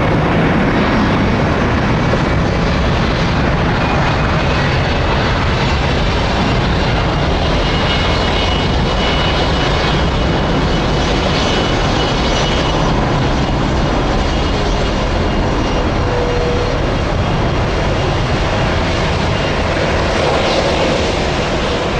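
Jet airliner engines running loud and steady, with a faint high whine coming in partway through.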